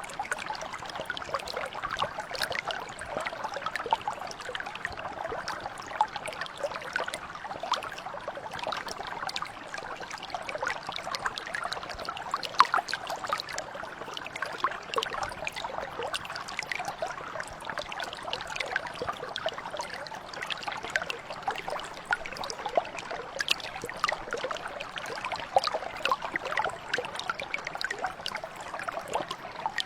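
Brook water flowing steadily over stones: a continuous babbling trickle full of small splashes and gurgles.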